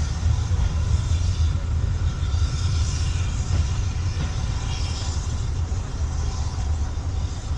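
Steady low rumble of a departing train's coaches rolling away along the track, fading slowly as they recede.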